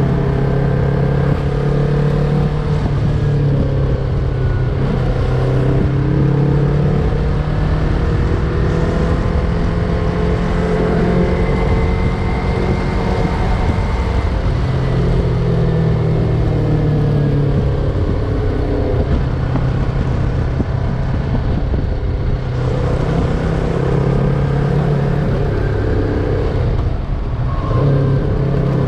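Yamaha MT-03 motorcycle engine running while under way, its pitch rising and falling with the throttle, over a steady rush of road and wind noise.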